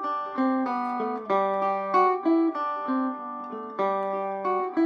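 Vintage Vega electric five-string banjo (circa 1936–37) picked in melodic style low on the neck: a run of single plucked notes, roughly three a second, each ringing on into the next.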